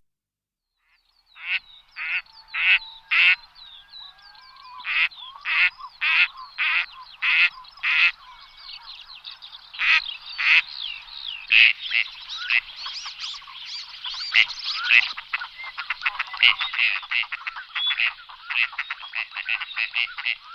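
Ducks quacking: a series of loud, separate quacks about two a second, then, from about ten seconds in, a busier chorus of many overlapping quacks.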